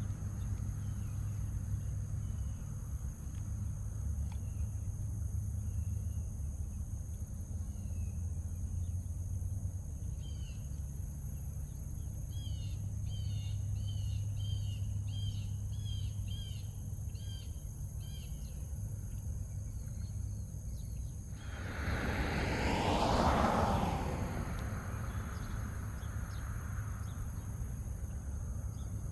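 Roadside outdoor ambience: a steady low rumble with a small bird chirping repeatedly in the middle, then a car passing on the road about three quarters of the way through, swelling up and fading away.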